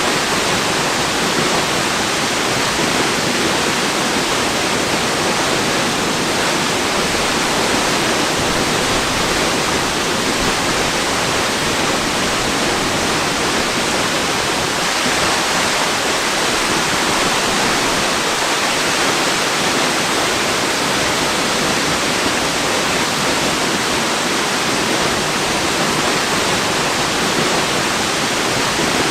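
Waterfall rushing with a steady, even hiss of falling water that does not change.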